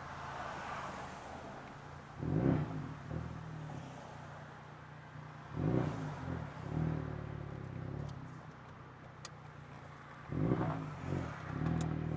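Ford Focus RS's 2.3-litre turbocharged four-cylinder engine running at low town speed, heard from inside the cabin with a window down. It rises in three short surges as it accelerates, about two, six and ten seconds in.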